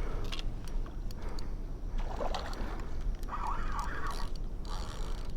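Water splashing and sloshing as a large hooked catfish is brought to the net at the bank, with sharp clicks and knocks throughout and a short wavering tone about three seconds in.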